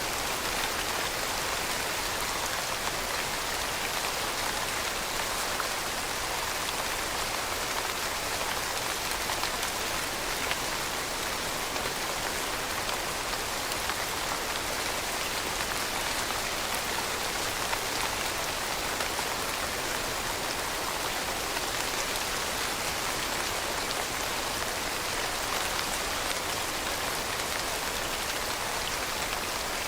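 Steady rain falling, a constant hiss of drops with fine patter, its sound sitting in the upper range with little low rumble.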